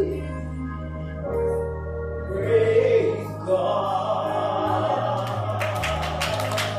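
Close of a gospel praise song: sustained low accompaniment chords under a last sung phrase, then an audience starts cheering and clapping in the second half.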